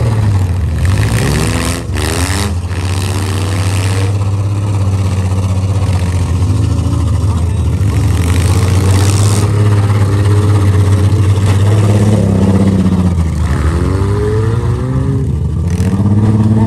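Demolition-derby minivans and SUVs running their engines hard, revving up and down several times. There are a couple of sharp knocks about two seconds in.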